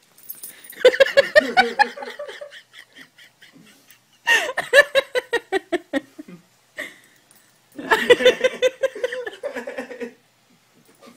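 A person laughing hard in three bouts, each a quick run of breathy pulses, with short pauses between them.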